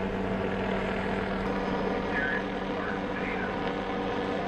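Helicopter engine and rotor running as a steady drone with a constant low hum.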